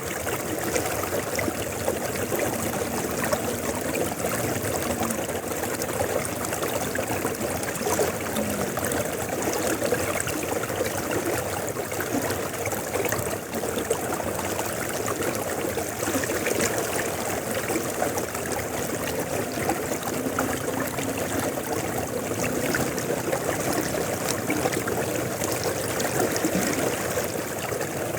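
A river flowing steadily: a continuous, even rush of running water.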